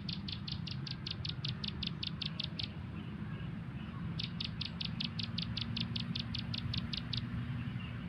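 Bird call: a rapid series of short, high notes at about seven a second, given in two runs of about three seconds each with a short pause between. A low, steady rumble runs underneath.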